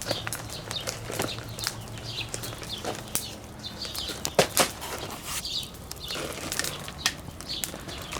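Wood campfire crackling and popping, with irregular sharp snaps; the loudest pops come about four and a half seconds in.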